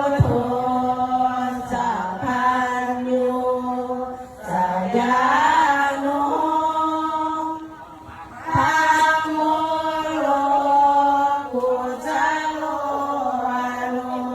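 Unaccompanied vocal chanting or singing in long phrases held on a nearly steady pitch, with short breaks for breath about four and eight seconds in.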